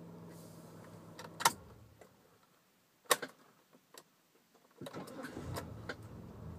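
Mitsubishi NM Pajero engine idling, then switched off with a click of the ignition key about a second and a half in and running down to near silence. After another key click the starter cranks, and the engine fires and settles back into a steady idle near the end.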